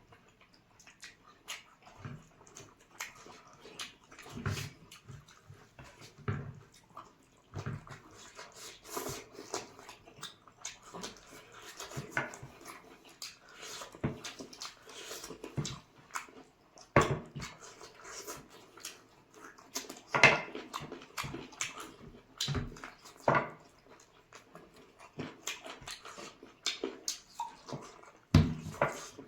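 Eating noises from people eating chicken curry and rice by hand: irregular wet chewing, lip-smacking and slurping, with short clicks throughout.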